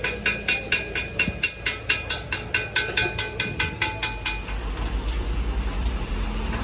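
Rapid, even metallic clicking, about four clicks a second, each with a short ring, that stops about four seconds in. A steady low rumble like a running engine follows.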